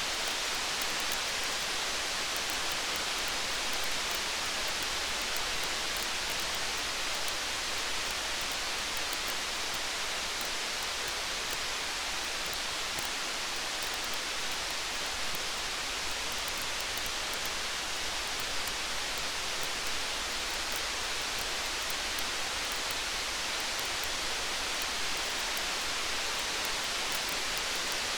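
Steady rain falling, an even hiss with no change in level, mixed with faint small crackles of a campfire.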